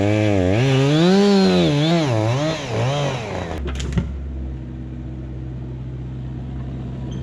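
Excavator's diesel engine with its pitch swinging up and down repeatedly as it works. After about three and a half seconds it settles to a lower, steady running note, with a single sharp click shortly after.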